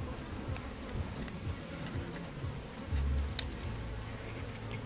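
Honeybees buzzing around an open, strong hive, with a heavy low rumble about three seconds in and a few faint clicks.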